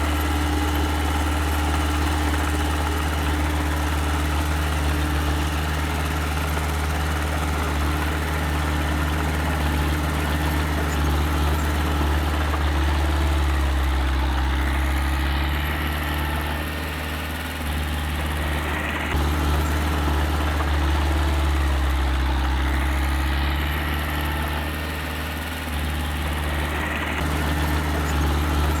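Engine of small earthmoving machinery running steadily with a deep hum. Twice, about halfway through and again near the end, the engine note sags and drops in level, then picks back up sharply, as if coming under and off load.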